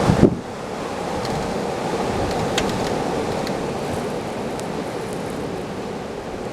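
Snowstorm wind blowing steadily and rumbling on the microphone, with a stronger gust at the very start that drops away sharply.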